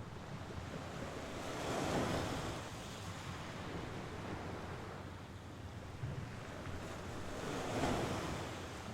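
Sea waves breaking and washing on the shore, two louder swells cresting about two seconds in and near the end over a steady hiss of surf.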